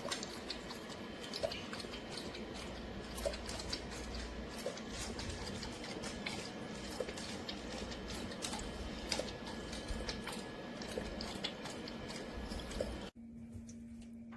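A dog lapping water noisily from a fountain bowl: a run of wet, clicking laps over trickling water. Near the end it cuts off abruptly, leaving a steady low hum.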